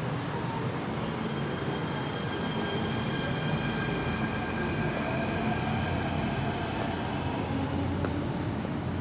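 MTR K-Train metro train running on the track: a steady rumble with faint high-pitched whines.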